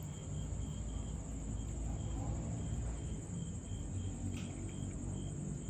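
Night insects chirping: a steady high-pitched trill, with shorter chirps repeating at uneven intervals, over a low rumble.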